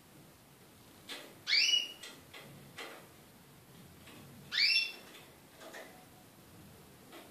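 Small caged pet bird giving two short rising call notes about three seconds apart, each sweeping quickly upward. A few faint clicks fall between them.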